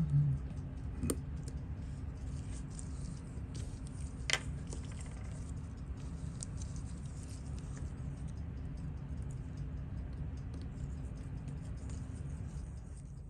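Faint clicks and taps of watchmaker's tools on a Seiko 6138 chronograph movement being taken apart, with a sharper click about four seconds in, over a steady low hum.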